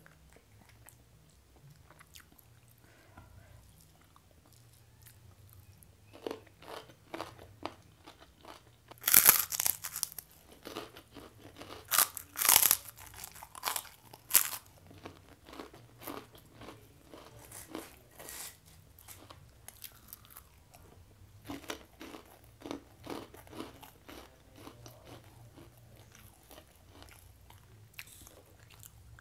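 Close-miked biting and chewing of a crunchy fried cracker (kerupuk). It starts about six seconds in, with the loudest crunches at about nine and twelve seconds, then settles into quieter chewing.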